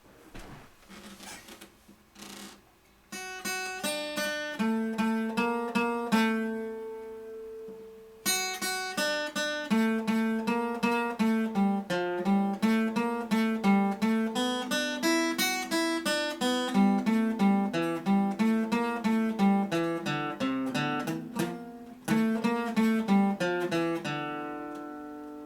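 Guitar picking a melody of single plucked notes that ring and decay, starting about three seconds in after a quiet lead-in. It pauses briefly once, and near the end the last note is left ringing.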